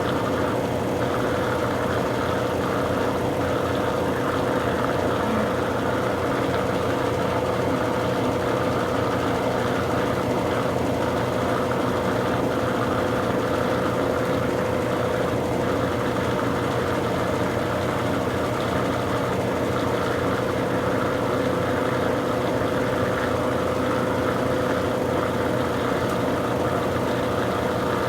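Consul Super Cargo 8 kg (CWL08C) washing machine in its spin cycle with a load of towels: a steady motor hum with a constant whine, running without a break.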